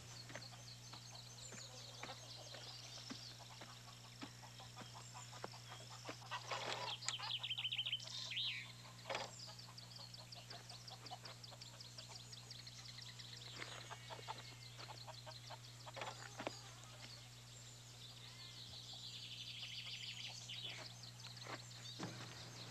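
Birds chirping and calling around a farmyard, with a brief fast trill about seven seconds in, over a steady low hum.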